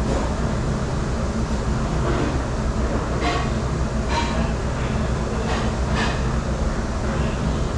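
Steady low drone of commercial dish-room machinery, with a few short clinks of dishes about three seconds in, again near four seconds, and around six seconds.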